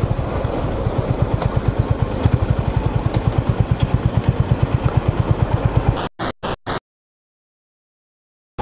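Honda GB350's air-cooled single-cylinder engine running as the bike rides along, a steady, regular beat of firing pulses. The sound cuts off about six seconds in after four short blips, then silence.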